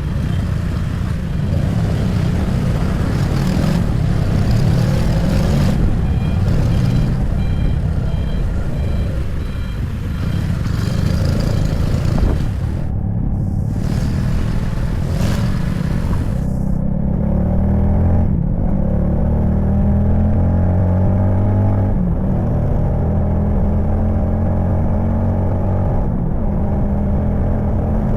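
Motor vehicle engines and road noise in traffic, a steady low rumble, most likely heard from a moving motorcycle. About six seconds in comes a run of short high beeps, and later the engine pitch rises and falls in steps.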